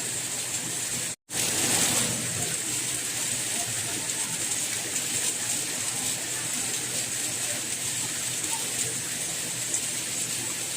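Steady rain falling, an even hiss of drops. It cuts out to silence for a split second about a second in, then returns slightly louder for a moment.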